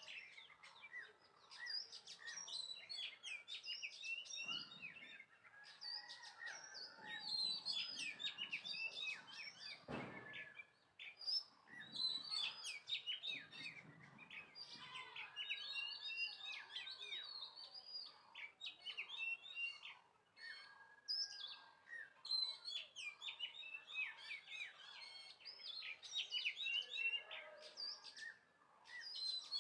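Many small birds chirping throughout, short high calls overlapping one another. A single soft thunk about ten seconds in.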